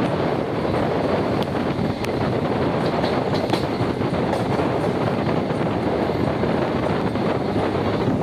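Express passenger train running along the track, heard from on board: a steady rumble of wheels on rails with a few faint clicks.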